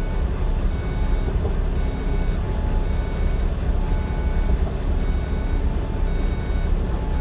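Steady low rumble of a moving road vehicle, with short electronic beeps repeating about once a second.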